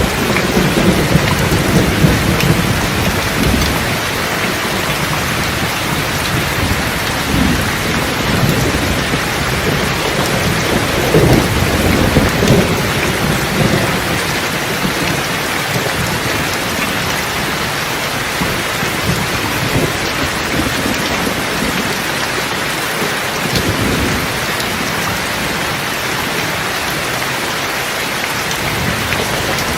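Steady heavy rain with thunder rumbling low underneath, the rumbles swelling at the start, again about ten seconds in, and once more near the end.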